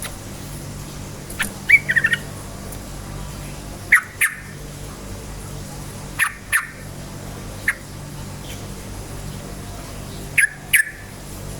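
Yellow-vented bulbul (trucukan) calling in short, bright chirps and quick warbled phrases, a few notes every couple of seconds, over a steady low hum.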